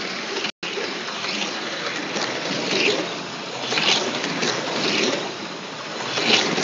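Slot cars running on a track, their small electric motors whirring in repeated swells as the cars pass, with a short gap of silence about half a second in.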